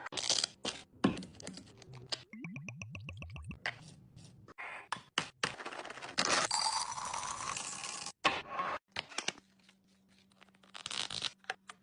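Kitchen items and packaging being handled in a close-up restock: a run of sharp clicks and taps, a rapid rattle about two seconds in, and a longer scraping rush from about six to eight seconds.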